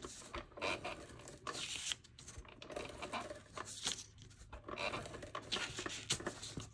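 Cardstock being handled while adhesive is run onto it with a tape runner: irregular dry rustling and crackling with small clicks.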